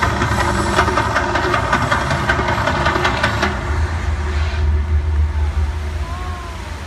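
Loud rumbling and rapid crackling of the Mirage volcano show's eruption. The crackling stops about three and a half seconds in, leaving a deep rumble that slowly fades.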